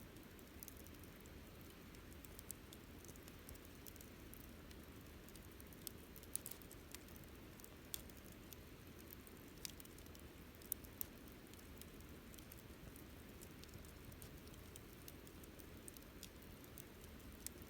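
Wood campfire crackling quietly: irregular sharp pops and snaps, about a dozen, scattered over a low steady background of the burning fire.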